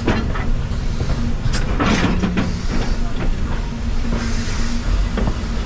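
A steam-hauled heritage train running, heard on board: a steady rumble with scattered clicks and knocks from wheels and rolling stock, the loudest cluster about two seconds in, and a short hiss a little after four seconds.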